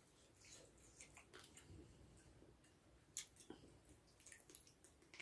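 Faint wet chewing and smacking of people eating spicy chicken feet, with scattered small mouth clicks, the sharpest about three seconds in.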